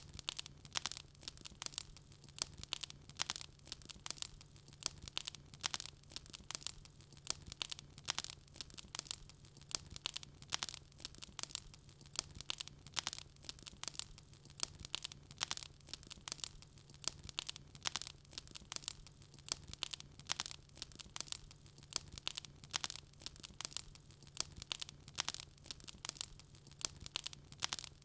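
Wood fire crackling: an unbroken run of small sharp pops and snaps, many each second, over a steady low hum.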